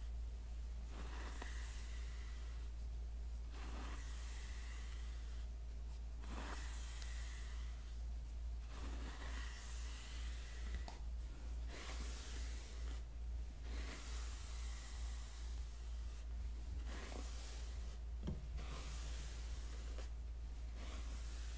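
Hairbrush bristles swept in slow, even strokes, about one every two and a half seconds, each a soft hiss lasting about a second.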